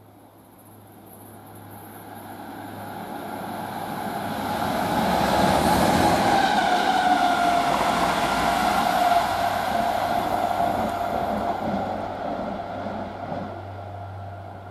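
Royal Mail Class 325 electric multiple unit passing at speed on a main line. The rush of wheels on rail swells as it comes up, peaks with a tone that drops in pitch as it goes by, then fades as it runs away.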